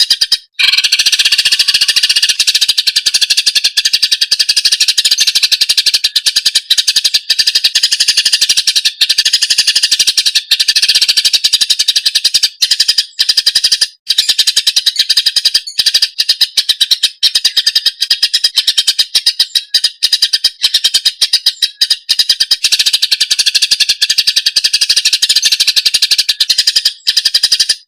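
Cucak ijo (green leafbird) singing a loud, rapid, chattering song almost without a break, cutting off suddenly at the end.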